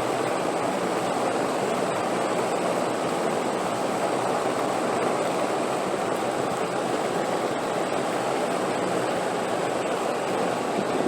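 Steady, even rushing of wind with no gusts or breaks.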